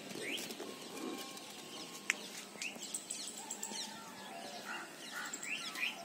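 Birds chirping, with scattered short rising and falling calls, and a single sharp click about two seconds in.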